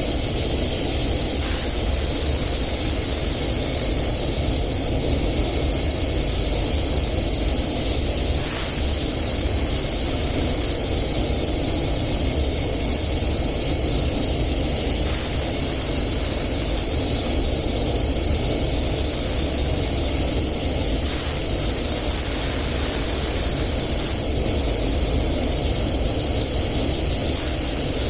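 Compressed-air paint spray gun spraying automotive paint: a loud, steady hiss of atomising air, held without a break.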